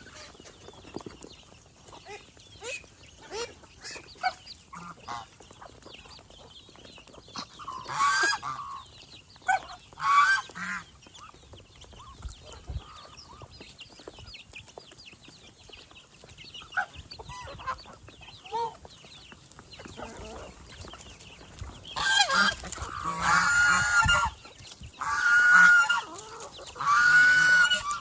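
Domestic geese honking: a few single honks, then a run of loud, repeated honks in the last several seconds, with softer calls and chatter in between.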